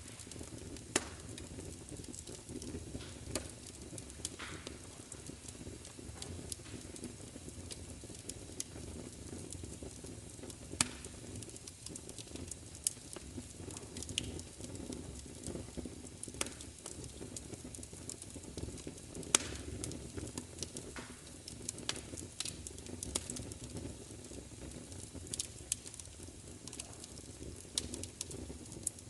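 Wood fire burning with a steady low rumble and irregular sharp crackles and pops, a few of them much louder than the rest.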